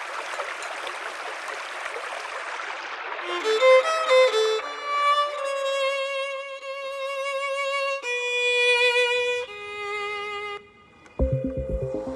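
Solo violin playing a slow melody of long held notes with vibrato, entering about three seconds in after a steady noise hiss fades. Near the end, after a brief pause, a loud electronic beat with heavy bass comes in.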